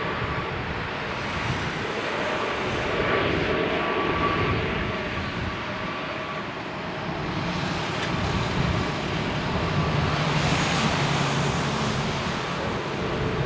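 Jet airliner engines running at low power: a steady rumble with a faint high whine over it, slowly swelling and easing.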